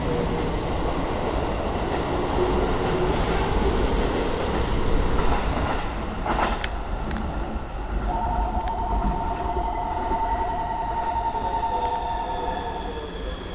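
Keikyu 1000 series stainless train pulling out of the station and running away down the track, a steady rumble of wheels and motors with a couple of sharp clicks about six seconds in. From about eight seconds a warbling two-note electronic tone sounds for some five seconds, and near the end high tones slowly fall in pitch.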